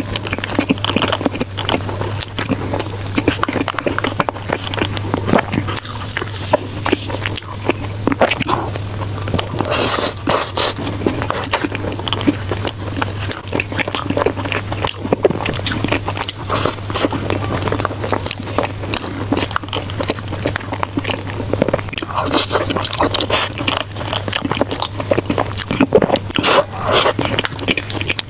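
Close-miked chewing and biting of food: irregular wet smacks, crunches and clicks. A steady low hum runs underneath.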